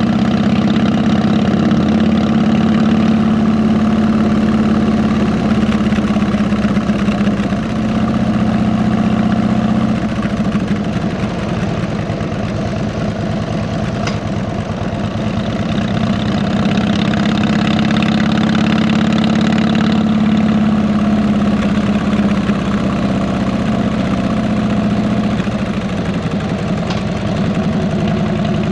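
Harley-Davidson V-twin motorcycle engine with fishtail exhaust running steadily. The engine note shifts down about ten seconds in and changes again near the end.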